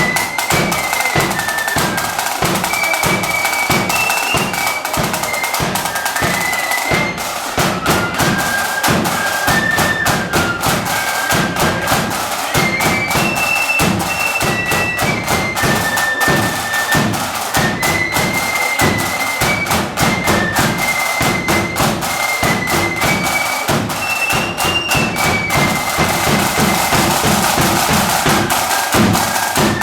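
Marching band playing a tune indoors: a high, shrill melody moving in held steps over a steady, driving beat of snare and bass drums.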